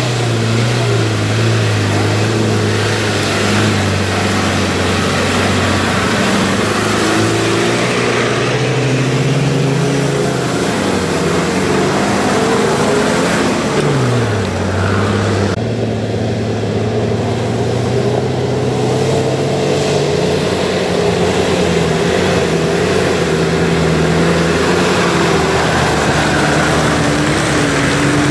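Off-road 4x4 engines running under load and revving as the vehicles drive through deep mud. The engine note dips and climbs again about halfway. Just after that the sound changes abruptly to another vehicle's engine.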